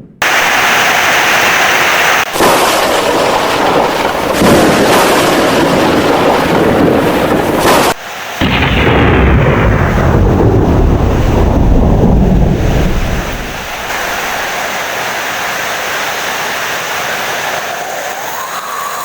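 Heavy rain with loud thunder rumbling. The sound jumps abruptly a couple of times, and a long, deep rumble fades out about two-thirds of the way in, leaving steady rain.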